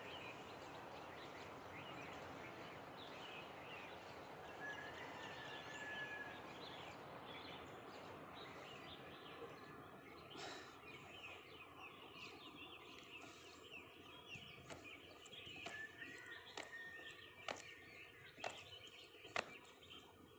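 Faint open-air ambience with small birds chirping now and then. In the second half a run of sharp clicks comes about once a second.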